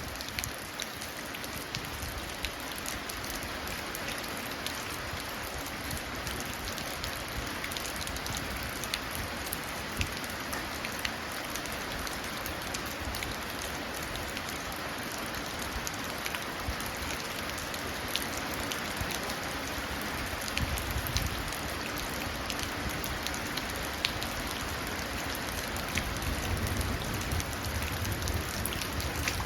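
Steady rain falling and running down into puddles, with many separate drops ticking against a surface. A low rumble of distant thunder builds near the end.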